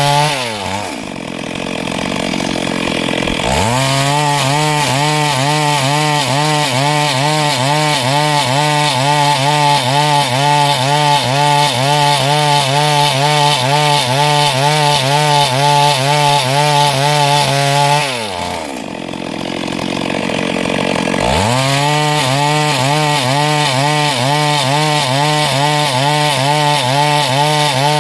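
Chainsaw running at full throttle, sawing through wood lengthwise, with its pitch wavering under the load of the cut. The throttle eases off twice, at the start and about two-thirds of the way through, and the saw revs back up a few seconds later each time.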